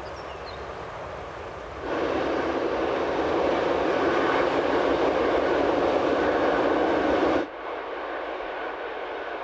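Passenger electric train running on the line. A quieter steady running sound gives way about two seconds in to a much louder, steady rushing noise of the moving train heard from on board. Near the end it drops abruptly back to a quieter running sound.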